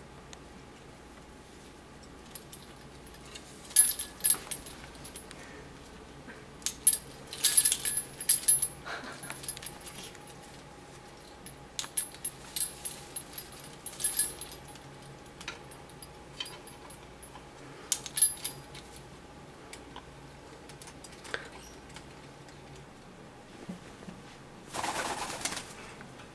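A Cape parrot clambering about a perch-built climbing tree among its toys: scattered clusters of sharp clicks, knocks and light metallic jingles, with a longer rustling burst near the end.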